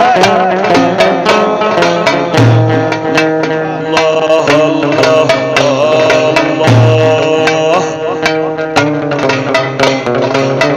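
Instrumental interlude of an Egyptian Sufi chanting ensemble: a melody that slides and bends in pitch over plucked strings and hand drum, with a deep low note returning about every four seconds.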